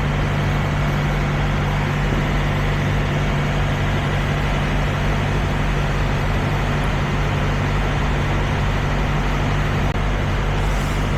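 Diesel semi-truck engine idling steadily, a constant low hum with an even noisy wash over it.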